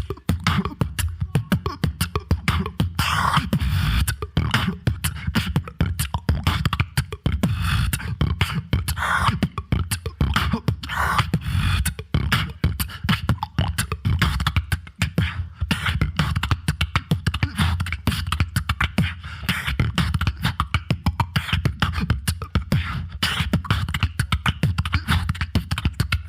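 Solo beatboxing into an amplified microphone: fast, dense vocal percussion with heavy bass hits and continuous rhythmic patterns.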